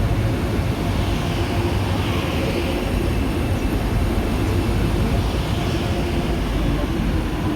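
A train running with a steady rumble, a broad hiss and a few faint steady tones.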